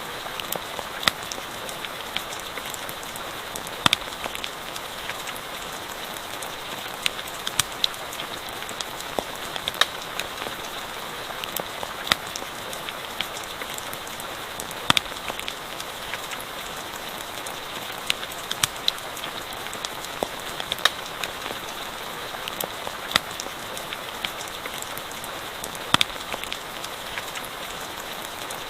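Steady rain falling as an even hiss, with a campfire crackling: sharp single pops every second or two.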